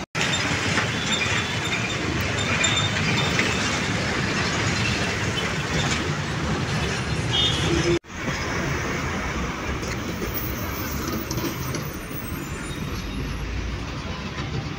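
Steady noise of a moving vehicle, broken by a sudden brief dropout about eight seconds in.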